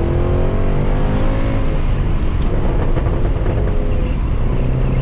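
Mercedes C63 AMG's 6.2-litre V8, with its secondary cats and resonators deleted, pulling under load with its note rising for about two seconds. The note then falls away into a rougher, lower sound, heard from inside the car.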